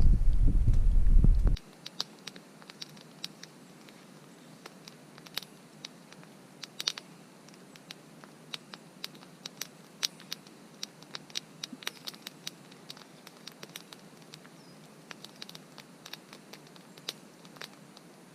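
Wood campfire crackling: sparse, irregular sharp pops and clicks over a quiet background. It opens with a loud low rumble that cuts off suddenly about a second and a half in.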